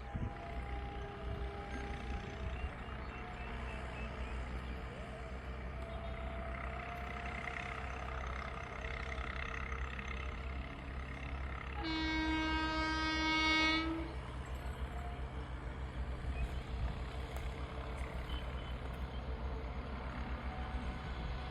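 Indian Railways electric locomotive's horn giving one steady blast of about two seconds, roughly midway through, over a constant low rumble.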